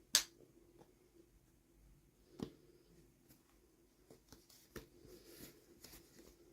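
Toy packaging being handled during an unboxing: a sharp click just after the start, another about two and a half seconds in, then lighter ticks and faint rustling.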